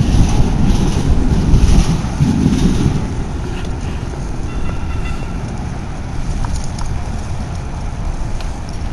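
Rumbling wind and road noise from riding a bicycle, heaviest in the first three seconds, then steadier.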